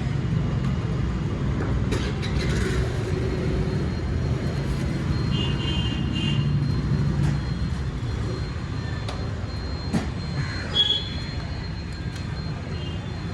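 Motorcycle on the move, heard from a helmet-mounted phone: a steady low rumble of engine, road and wind noise, with a few short high tones midway and near the end.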